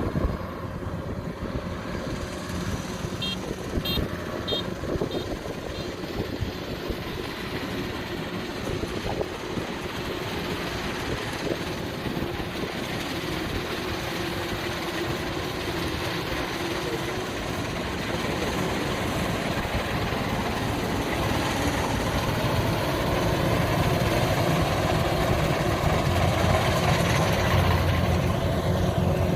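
Kubota DC93 rice combine harvester's diesel engine running steadily, growing gradually louder toward the end. A few short high chirps sound about three to five seconds in.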